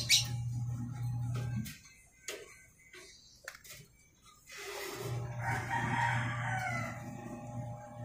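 A cockatiel's sharp, high chirp right at the start. About five seconds in comes a longer bird call lasting about two seconds, over a steady low hum that drops away for about three seconds in the middle.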